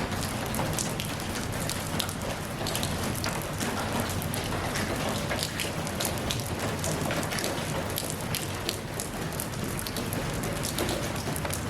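Steady rainfall, with many separate drops pattering on a surface over an even hiss.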